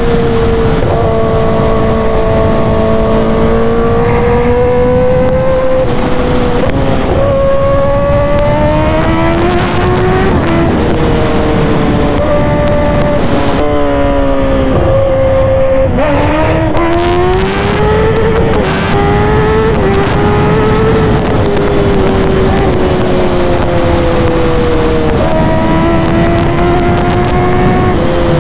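Kawasaki ZX-10R's inline-four engine running loud through an SC Project exhaust as the bike is ridden, its pitch rising and falling several times as the revs climb and drop.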